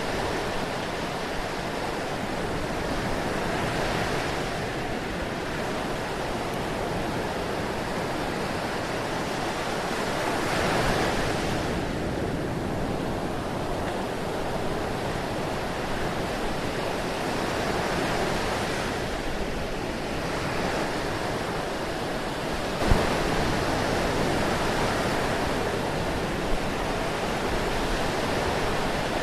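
Ocean waves washing on a shore in a steady wash of surf that swells and eases every few seconds. There is a brief sharp click about three quarters of the way through.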